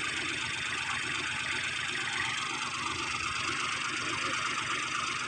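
Engine of heavy machinery (the tractor or the bulldozer pushing it) running steadily at a constant pace, with no revving.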